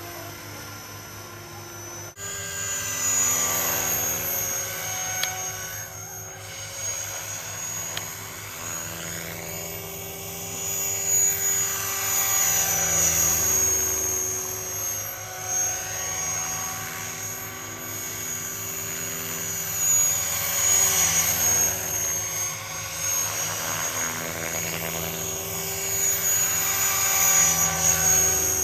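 Radio-controlled model helicopter flying: a steady motor-and-rotor drone with a high whine, its pitch and loudness shifting as it manoeuvres and passes. It gets louder about two seconds in.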